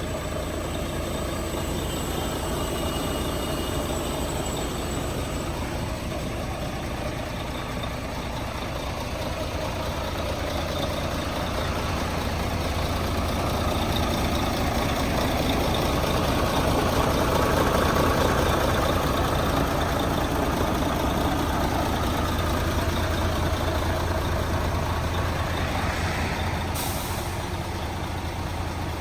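Mercedes-Benz Actros 1846 truck's V6 diesel engine running, growing louder towards the middle and then easing off. A short hiss of released air, typical of the truck's air brakes, comes near the end.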